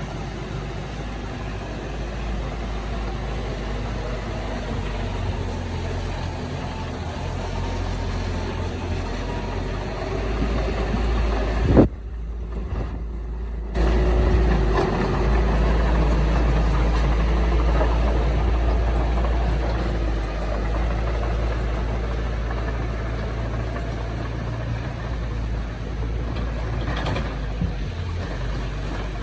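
Heavy diesel earthmoving machinery running steadily with a low rumble. There is a sharp knock about twelve seconds in, and a couple of seconds later the engine sound comes back somewhat louder.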